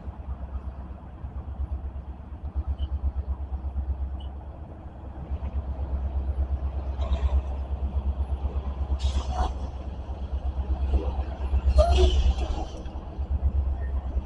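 Wind buffeting the microphone outdoors, giving a steady fluttering low rumble, with a few brief faint higher sounds about 7, 9 and 12 seconds in.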